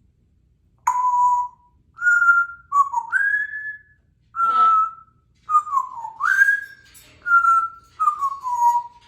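African grey parrot whistling a string of clear notes, some held steady and some sliding up or down in pitch, with a short raspy sound about halfway through.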